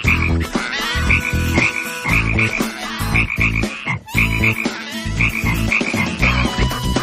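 Frog croaking calls: short runs of rapid pulsed croaks repeating roughly every second or so.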